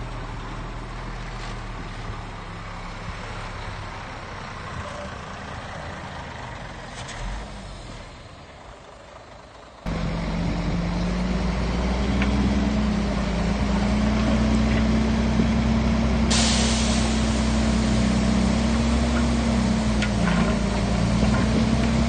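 Diesel engines of heavy earthmoving machinery running steadily; about ten seconds in the sound jumps suddenly to a louder, closer engine, and some six seconds later comes a short, sharp burst of air hiss.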